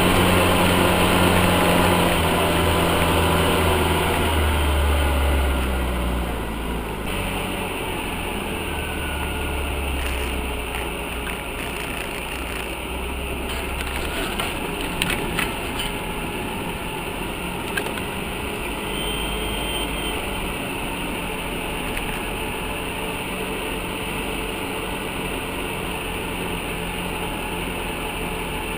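UAZ off-road vehicle's engine running, loudest in the first few seconds, then easing off to a lower, steadier sound, with a few sharp clicks or knocks near the middle.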